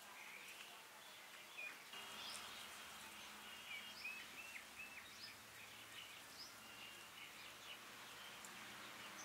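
Faint bird calls: short chirps and whistled notes, several in quick succession from about two seconds in, over quiet outdoor background hiss.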